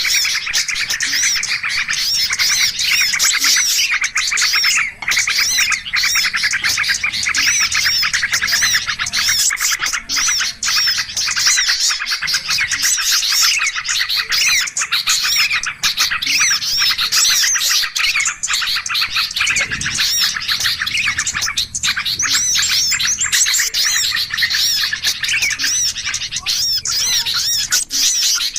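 Dense, unbroken chatter of many small songbirds, with quick overlapping chirps and twitters. It is a bird-lure (pikat) recording, played to draw in wild birds of all kinds.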